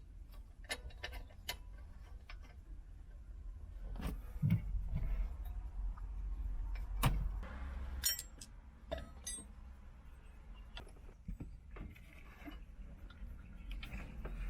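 Metal hand tools clicking and clinking on car parts during engine-bay work, with a couple of heavier knocks about four and seven seconds in, over a steady low rumble.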